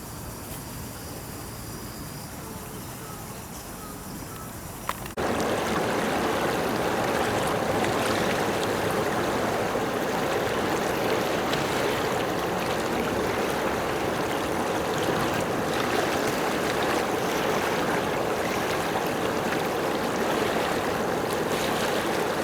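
Steady rushing water that cuts in abruptly about five seconds in, after a quieter stretch, and runs on evenly.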